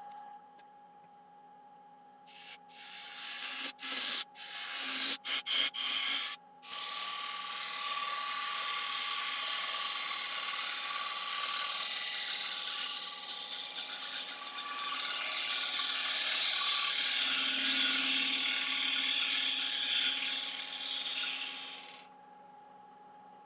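A wood lathe runs with a steady motor whine while a tool works the spinning Iroko platter: a few short hissing strokes, then one long continuous hissing pass. Near the end the tool stops and the lathe's whine falls in pitch as the lathe slows down.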